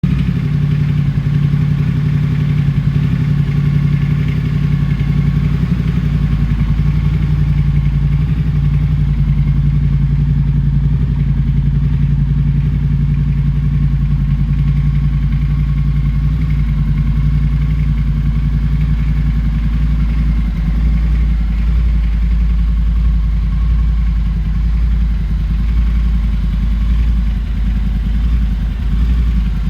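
Triumph Scrambler 1200 XC's 1200 cc parallel-twin engine idling steadily through an aftermarket Zard exhaust.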